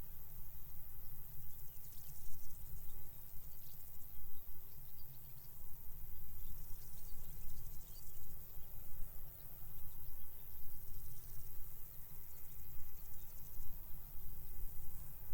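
Crickets chirping in a steady high, pulsing hiss across the field, with wind gusting on the microphone as an uneven low rumble.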